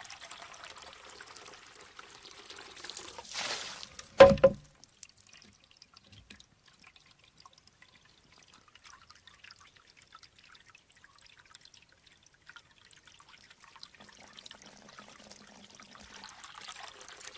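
Shishi-odoshi bamboo water fountain: water trickling, swelling to a short rush as the tube tips and empties about three and a half seconds in, then one sharp, hollow clack of the bamboo striking its stone just after four seconds. After that only a faint trickle as the tube refills, building again near the end.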